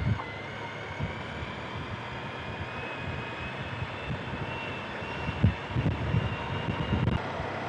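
Motorcycle on the move, heard through a helmet-mounted camera and intercom: steady wind and engine noise, with a faint whine slowly rising in pitch as the bike gathers speed. A few low thumps come in the second half.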